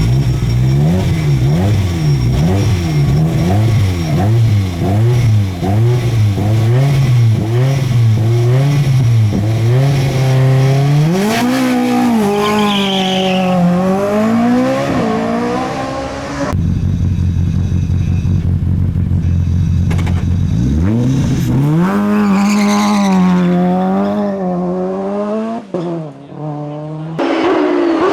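Racing car engines at full throttle: for the first ten seconds the engine pitch rises and falls about once a second, then it makes longer climbs and drops. The sound cuts abruptly about 16 s in to a steady engine note. From about 21 s an engine revs up again, and there are further sudden cuts near the end.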